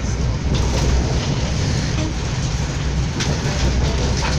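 Passenger train running along the track, heard from inside the carriage: a steady low rumble of the wheels and running gear, with a few faint clicks.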